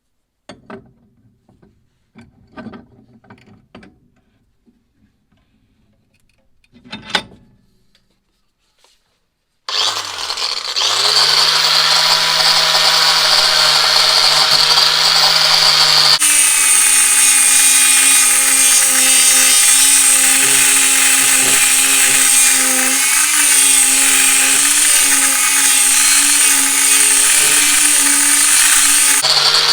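A few scattered knocks and clicks of tools and parts being handled. About ten seconds in, an electric power tool's motor spins up and runs steadily. Its sound changes about six seconds later, as it starts working on the metal, and it spins down near the end.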